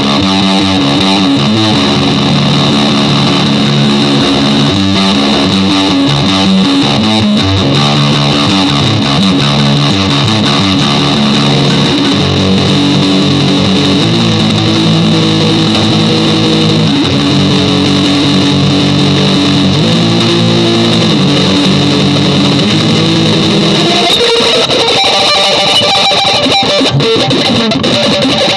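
Electric guitar music: sustained chords that change every second or two. About 24 seconds in, the low chords drop away and higher notes take over.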